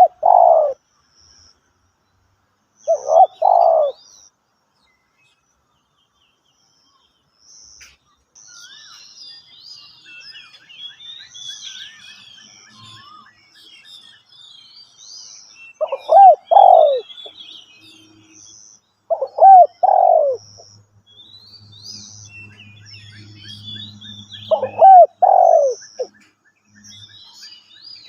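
Spotted dove cooing in loud phrases of two or three notes, repeated every few seconds with a long pause in the middle. Small birds chirp and twitter faintly in between.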